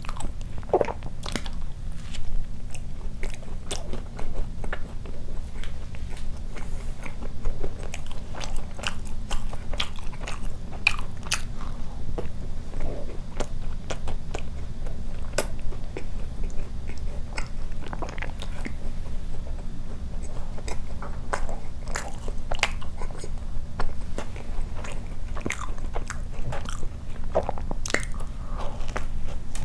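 Close-miked chewing and mouth sounds of a person eating soft glazed doughnuts: scattered wet smacks and small clicks, with a bite into a fresh doughnut near the end. A steady low hum runs underneath.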